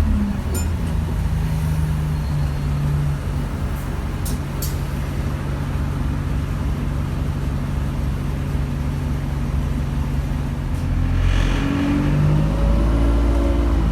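Bus engine and drivetrain running while moving, a steady low drone heard on board, with a few sharp clicks or rattles in the first few seconds. About eleven seconds in there is a short hiss, and the engine note rises and gets louder as the bus pulls away.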